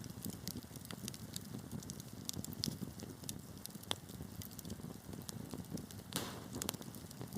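Wood fire burning in a fireplace: a steady low rumble of flames with irregular sharp crackles and pops from the burning logs, and a short hissing flare of crackle about six seconds in.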